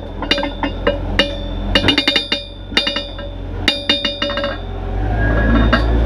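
A quick, irregular series of sharp percussive strikes, each ringing with pitched tones, over a low rumble that grows louder near the end.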